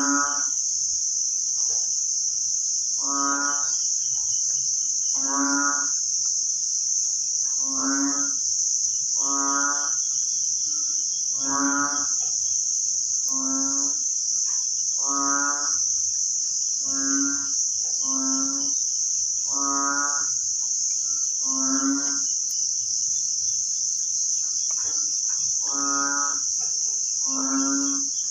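A steady, high-pitched insect chorus, with a frog's short croaking call repeated every one to two seconds.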